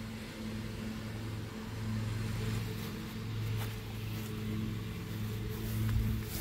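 A steady low engine hum, swelling and fading slightly, with a few faint clicks.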